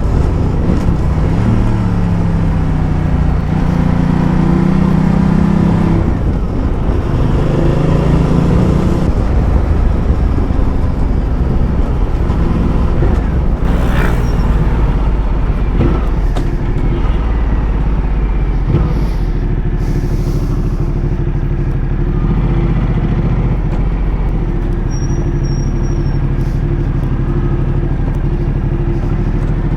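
Ducati Multistrada motorcycle being ridden, its engine note rising and falling through the gears for the first several seconds and then running more steadily with a heavy low rumble. A single sharp crack is heard about halfway through.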